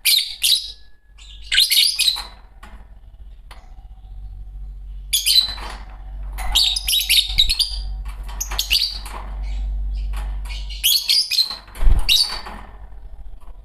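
A pair of green Fischer's lovebirds chirping in short, shrill, scratchy bursts, about half a dozen clusters separated by brief pauses.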